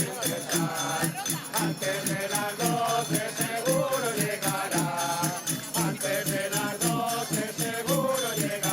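A group singing a Christmas carol together, with jingling, rattling hand percussion keeping a steady beat.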